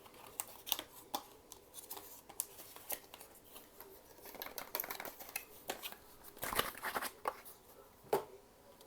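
Hands opening a taped cardboard collector's box: irregular scratchy rustles and sharp clicks of cardboard and plastic packaging being worked open, busiest in the second half with one sharp click near the end.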